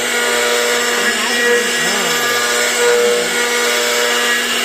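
CNC router carving, its spindle running with a steady whine over cutting noise, while lower motor tones glide up and down in pitch as the head moves.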